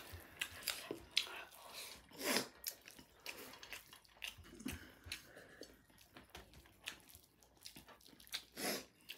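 Faint chewing and wet mouth noises of people eating biryani with their hands: scattered small smacks and clicks with a few short smeared sounds.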